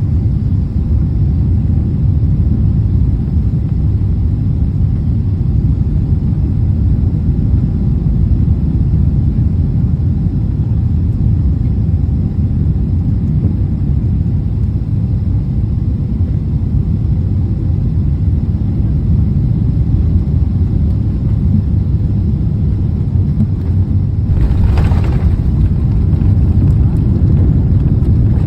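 Steady low rumble of a Boeing 777 airliner heard from inside the cabin, engine and airflow noise without a break. A brief hiss comes near the end.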